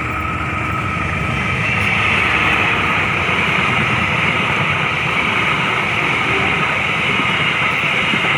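Diesel-hauled passenger train passing close by at speed without stopping: the locomotive goes by, then the coaches' wheels run over the rails in a steady loud rush with a high hiss that builds about two seconds in.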